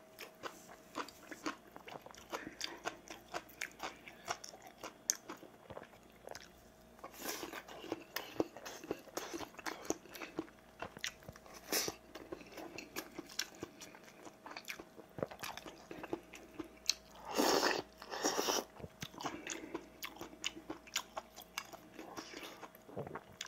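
Close-miked mouth sounds of a person chewing and crunching rice and side dishes: wet, irregular smacks and crunches. About three-quarters of the way through there are two louder whooshing sounds.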